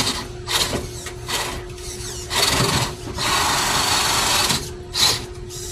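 Electric RC truck's motor buzzing in short throttle bursts, with one longer full-throttle run of about a second and a half past the middle.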